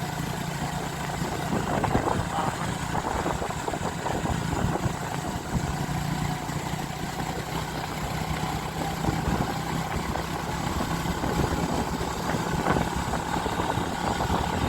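Vehicle engine running steadily under way, with continuous wind and road noise on the microphone.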